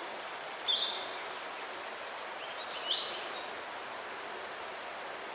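A small bird sings a short high phrase twice, about two seconds apart, over a steady background hiss.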